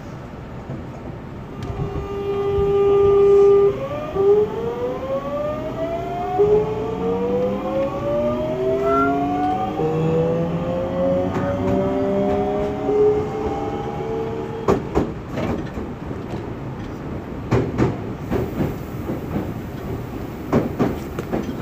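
Mitsubishi GTO-thyristor VVVF inverter of an Osaka Metro 66 series train pulling away. It gives a steady hum for about two seconds, then several whining tones climb in pitch together as the train accelerates. The whine cuts out about fourteen seconds in, leaving the wheels clicking over rail joints.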